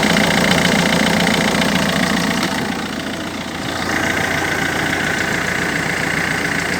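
Citroen C4 Grand Picasso's HDi turbodiesel engine running at idle, steady with a diesel clatter. The sound dips briefly about three seconds in, then steadies again with a slightly changed tone.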